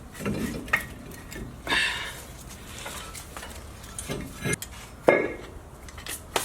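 Metal hand tools clinking and clattering: wrenches and sockets knocking against each other and against metal parts in scattered short clinks, the loudest about five seconds in.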